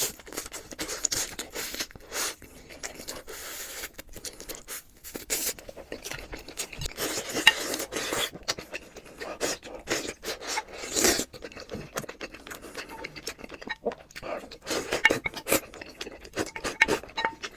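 Close-miked eating sounds: a utensil scraping against a dish, with irregular clicks and handling noises.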